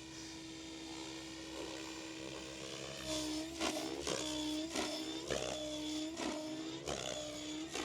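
SAB Goblin Kraken 700 electric RC helicopter in flight, its motor and rotor making a steady pitched whine. From about three seconds in, the whine dips and swishes rhythmically, nearly twice a second, as the rotor blades are loaded in back-and-forth tic-toc manoeuvres.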